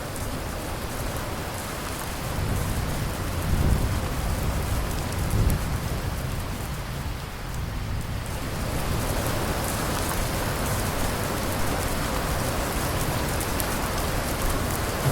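Steady rain falling, with a low rolling rumble of thunder from about two to six seconds in that swells twice.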